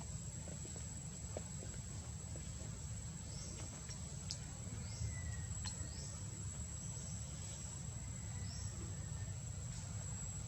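Outdoor ambience: a steady low rumble under a continuous high-pitched whine like an insect, with about five short, high, falling chirps in the middle and later part and a couple of sharp clicks.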